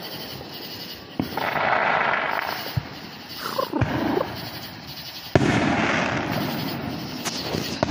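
Consumer fireworks going off in neighbouring yards: a sharp bang about a second in and a louder one just past five seconds, each followed by crackling.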